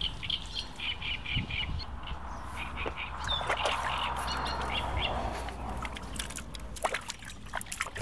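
A small bird chirping a quick run of short, high notes over the first two seconds. Then water sloshes and splashes in a plastic bucket as hands are rinsed in it.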